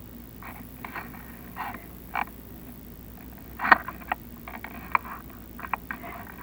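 Chimney inspection camera scraping and knocking against the inside of the flue as it is lowered. The scrapes and clicks come at uneven intervals, with one sharp knock about halfway through.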